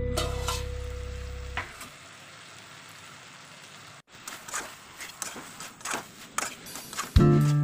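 Vegetables sizzling in a metal kadai as they are stir-fried, with the metal spatula scraping and knocking against the pan in the second half. Background music fades out at the start and comes back near the end.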